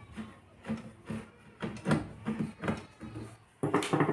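Irregular clicks, knocks and scrapes of tools and hands working on an amplifier's chassis to open up its driver board, with a louder cluster of knocks near the end.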